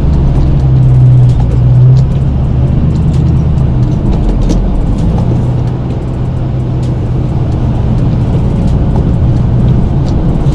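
Plow truck engine working under load as the plow pushes snow, heard from inside the cab; it is loudest about one to two seconds in, then the engine note drops about four seconds in and runs steadily.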